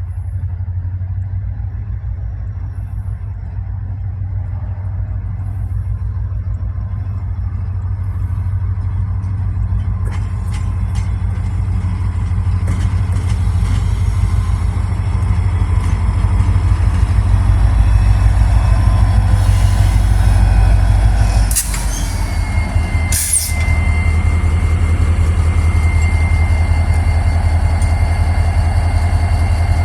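EMD SD40-2 diesel-electric locomotive's 16-cylinder engine running with a deep steady drone, growing louder as the light engine moves along. Two short sharp bursts of hiss come about two seconds apart past the middle, and then a high, steady squeal sets in.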